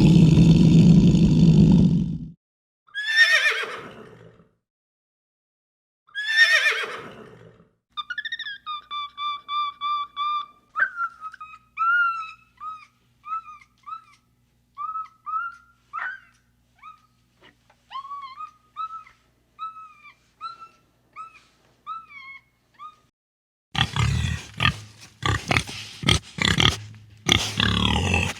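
A string of different animal calls cut one after another: a loud rough low call, two calls that fall steeply in pitch, a long run of short repeated chirps, then a dense burst of rough noisy calls near the end.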